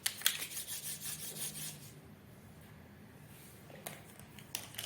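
Quick scratchy strokes of writing on paper for about two seconds, then quiet with a few faint clicks near the end.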